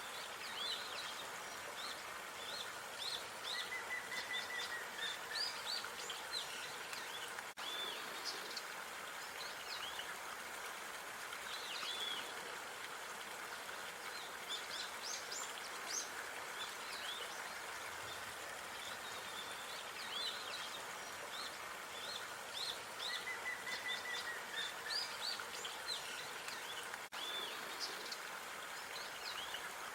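Small birds chirping and calling in quick high notes, with a short falling whistle twice, over a steady background hiss of outdoor ambience.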